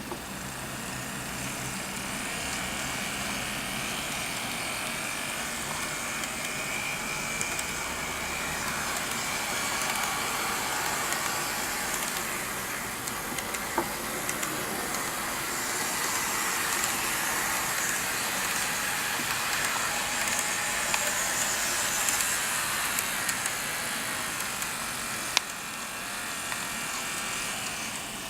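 N-gauge model of a Sanriku Railway Type 36 diesel railcar running on track: a steady motor whir and wheel rumble with thin whining tones, growing louder and fading as it moves, and a few single clicks, one sharper near the end.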